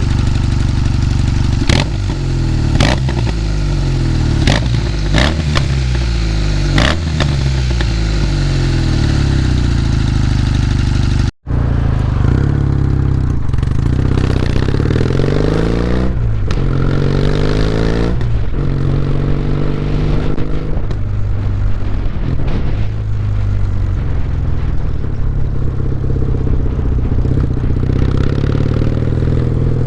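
Kawasaki W800's parallel-twin engine running through a POSH aftermarket muffler, idling and revved repeatedly with throttle blips that rise and fall back to idle. There is a brief break about eleven seconds in, then more revs.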